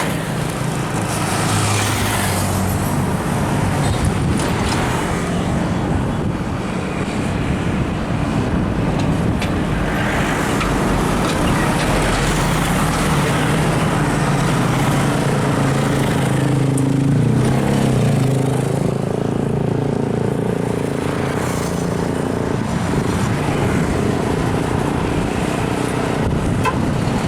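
Road traffic with heavy trucks going by: diesel engines running and tyre noise that swells as each truck passes, a few times over.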